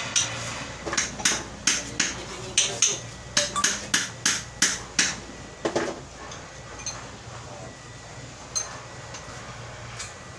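A run of sharp metallic knocks, about a dozen in quick succession over the first five seconds and one more about six seconds in: metal tools striking metal during repair work on a steering rack end.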